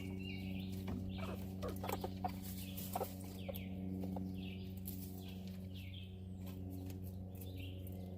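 Small birds giving short chirping calls about once a second, over a steady low electrical-sounding hum, with a few light clicks in the first three seconds.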